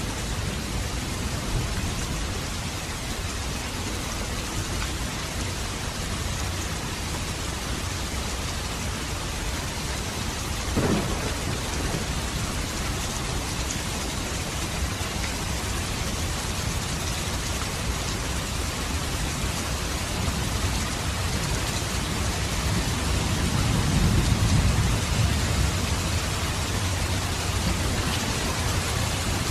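Steady rain falling, with a low rumble of thunder swelling and fading about three-quarters of the way through. A short sharp knock sounds about a third of the way in.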